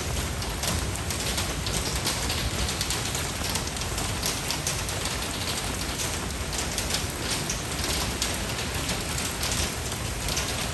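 Steady rainfall with a dense patter of drops striking a surface, even in strength throughout.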